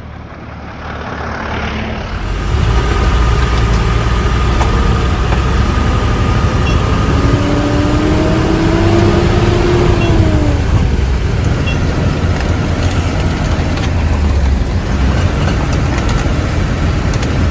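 Truck engine and road noise on the move, a deep rumble that builds over the first few seconds and then holds steady. Midway a whine rises in pitch and falls away.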